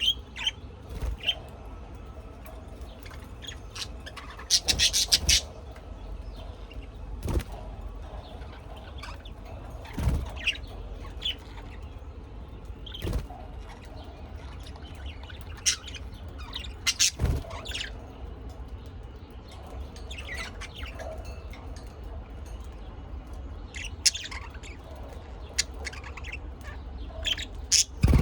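Small birds chirping in short, scattered bursts, with occasional sharp clicks and a low steady hum underneath.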